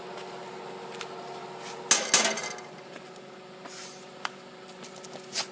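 Electric gate-arm motor running with a steady whine, the noise the owner finds unusually loud, and two sharp metallic clanks about two seconds in.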